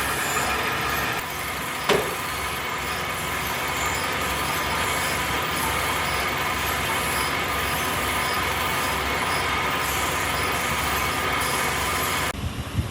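Wood lathe running steadily, with a sharp click about two seconds in; the noise drops off suddenly near the end.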